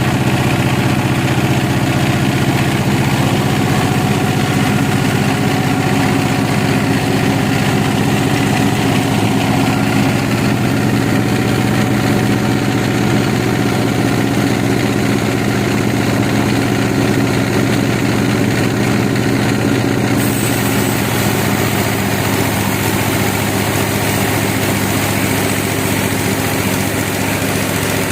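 Engine running steadily at an even speed, a constant low drone, most likely the engine driving the sawmill.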